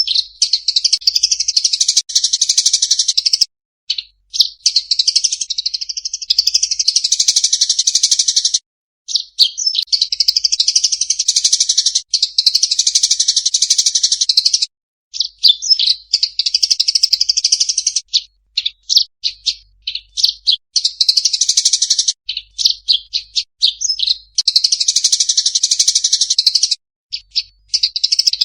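A songbird singing a masteran tutor song for caged competition birds: about seven high-pitched phrases, each a few seconds long. Each phrase opens with separate short notes and runs into a fast, dense chatter, with brief clean silences between phrases.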